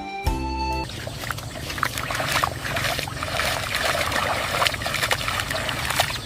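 Water trickling and splashing, with many small irregular clicks and spatters. A few notes of music end about a second in.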